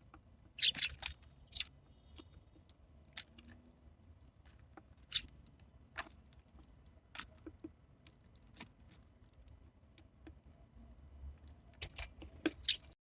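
Birds pecking and cracking seeds at a feeder: irregular sharp taps and cracks, loudest in a quick cluster about a second in and again just before the end.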